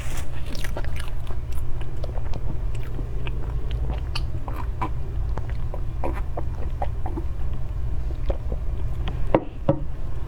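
Close-up mouth sounds of someone eating soft cream cake: wet chewing with frequent small lip smacks and clicks, over a steady low hum.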